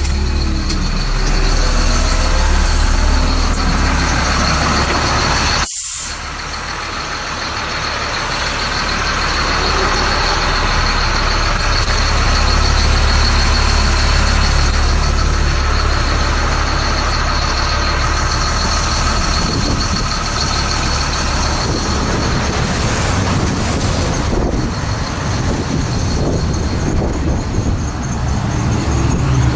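2004 Blue Bird Vision school bus's diesel engine running, a steady low drone with noise on top, cutting out for a moment about six seconds in.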